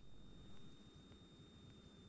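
Near silence: a faint hiss with a thin, steady high-pitched tone.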